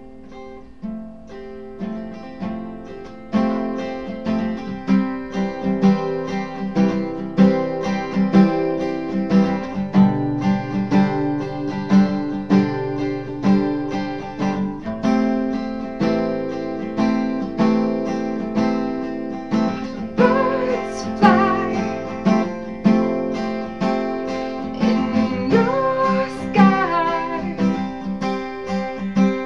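Acoustic guitar strumming a song intro, growing louder a few seconds in; a voice starts singing over it about twenty seconds in.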